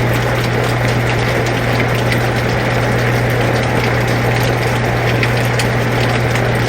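Air conditioner running with a steady low hum, mixed with steady rain whose drops tick faintly over the even hiss.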